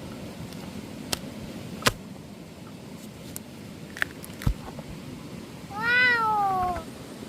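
A cat meowing once, a single call of about a second near the end that rises and then falls in pitch. A few short light knocks come before it.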